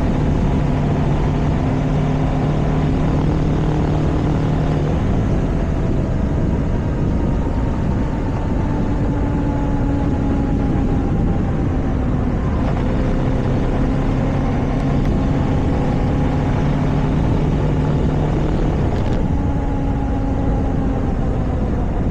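A vehicle cruising at road speed: heavy wind and road noise over a steady engine hum. The engine note fades for a while and then comes back.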